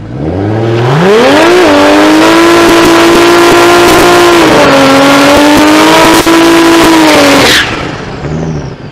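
Turbocharged Toyota 1JZ straight-six revved up sharply over about a second and a half, then held at high, nearly steady revs with a small dip midway while the rear tyres spin and smoke in a burnout. The engine note cuts off suddenly near the end as the throttle is lifted.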